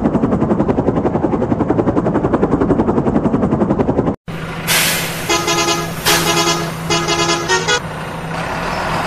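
Electronic helicopter sound effect from a battery toy helicopter: a rapid, even rotor chop. After a brief cut it gives way to a toy truck's electronic sound, a steady engine hum with four short horn toots.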